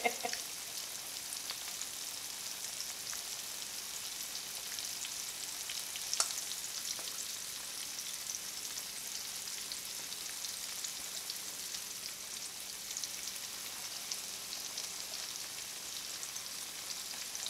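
Cornmeal-coated catfish nuggets deep-frying in vegetable oil in a cast iron skillet: a steady, even sizzle with fine crackling, and one sharper tick about six seconds in.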